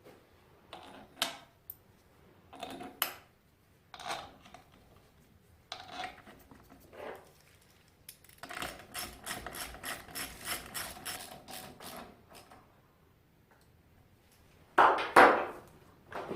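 Mechanical clicks and clatter from hand work on metal parts, with a few seconds of fast, evenly repeated clicking in the middle and a louder clatter near the end.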